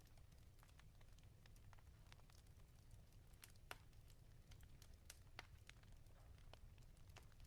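Wood fire crackling in a fireplace: faint, irregular pops and snaps over a low steady rumble, the sharpest pop about halfway through.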